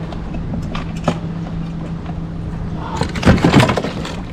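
A few sharp knocks, then about three seconds in a loud splashing scuffle as a bass flops off a kayak measuring board into the water. A steady low hum runs underneath.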